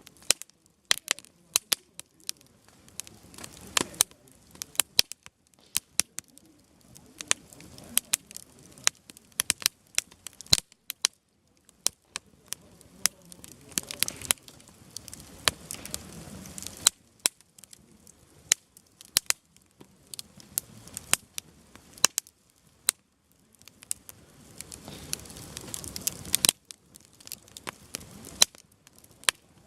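Firewood burning in a campfire, crackling with many irregular sharp pops, some of them loud. Under the pops a faint background swells and fades several times.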